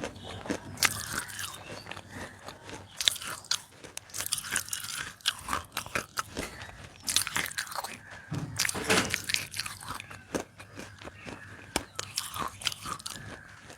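Close-miked biting and crunching of roasted Nakumatt edible clay: irregular sharp cracks as pieces are bitten off, with chewing and grinding between bites.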